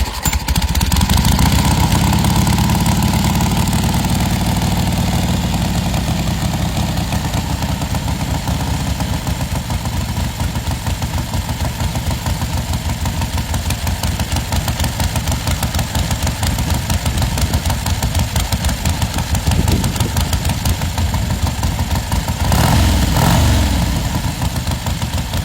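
1962 Harley-Davidson XLCH Sportster's 883 cc Ironhead V-twin running at idle through loud pipes, with a short rev of the throttle near the end.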